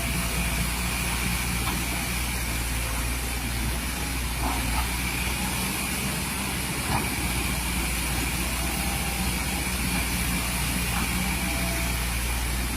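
Excavator's diesel engine running steadily, with a few faint knocks now and then.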